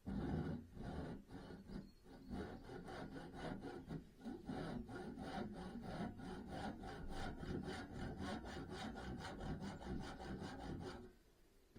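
Hand saw cutting through wood in steady back-and-forth strokes, which speed up to about four a second before stopping abruptly near the end.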